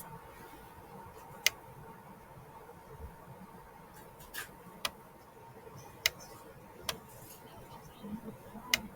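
Six sharp, isolated clicks at irregular intervals over a faint steady hum.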